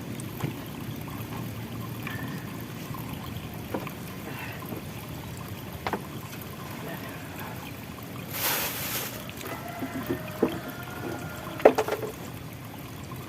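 Water trickling and pouring, with scattered light knocks and clicks of handling. A short rush of noise about eight seconds in and a few sharp clicks near the end.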